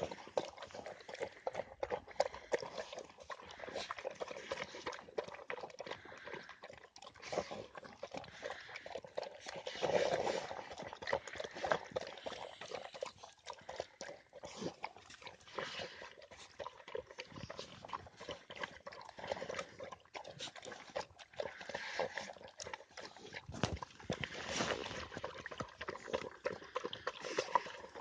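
A dog eating: a fast, irregular run of chewing and smacking clicks.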